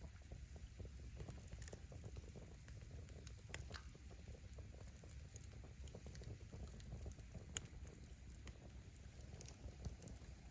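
Wood fire crackling, firewood popping in irregular small snaps over a low rumble, with one sharper pop about three quarters of the way through.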